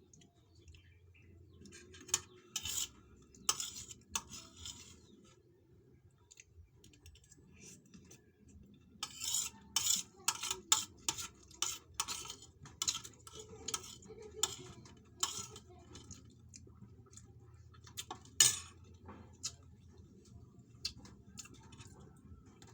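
Cutlery clinking and scraping against a plate while eating: a few clinks early, then a busy run of quick clinks in the middle, and one sharp loud clink later.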